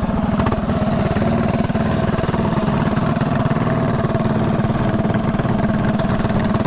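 Mini bike's small single-cylinder engine running at a steady, even speed while riding.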